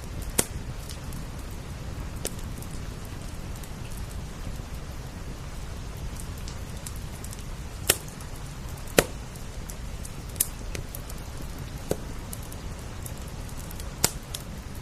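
Wood fire crackling, with a handful of sharp pops several seconds apart, over a steady hiss of rain.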